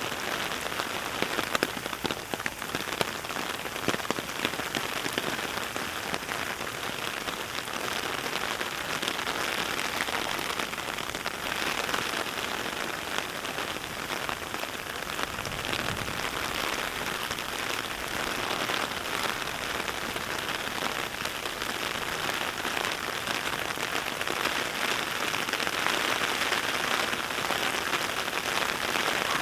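Steady heavy rain falling, a dense even hiss of drops with a few sharper drop hits in the first few seconds.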